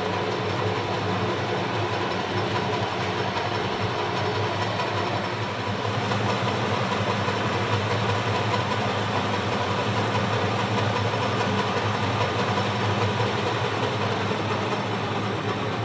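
Sheldon WM56P metal lathe running steadily with its variable-speed drive, spindle turning and carriage on power feed during a cut on steel bar stock: a continuous mechanical hum with steady tones. It runs smoothly, without chatter.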